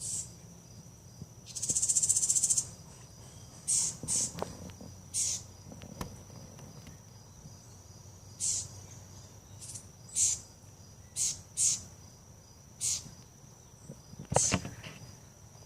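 Small birds giving alarm calls at a cat: about a dozen short, sharp high-pitched scolding calls spaced irregularly, with one harsh buzzy call about a second long near the start. A steady high tone runs underneath.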